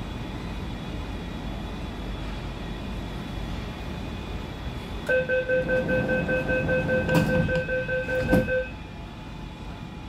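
MTR C-Train door-closing warning: a rapid, pulsing beep that starts about five seconds in and lasts about three and a half seconds, over the steady hum of the standing carriage. Two knocks come near the end of the beeping as the doors shut.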